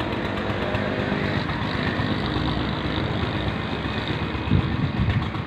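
Belarus tractor's diesel engine running steadily at idle, with a few knocks about four and a half seconds in.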